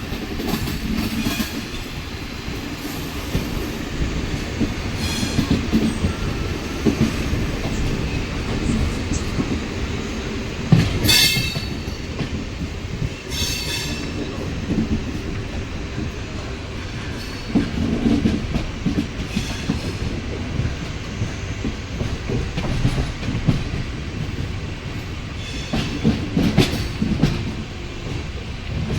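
Passenger coaches of an express train rolling into a station, their wheels clattering steadily over the rail joints. Several short, high squeals from the wheels or brakes break through as the train slows to stop, the loudest about eleven and thirteen seconds in.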